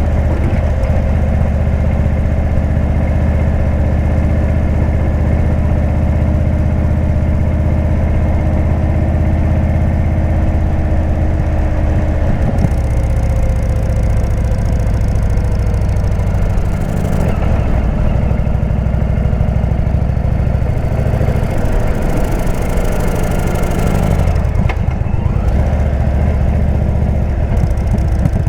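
Indian V-twin motorcycle engine running through a Jekill & Hyde exhaust, a steady deep note for the first twelve seconds or so, then changing pitch a few times as the revs drop and rise.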